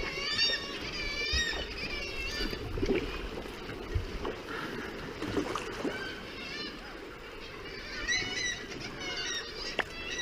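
Birds calling repeatedly in wavering, quavering calls, in bunches near the start and again near the end, over the low rumble of water and wind around a kayak.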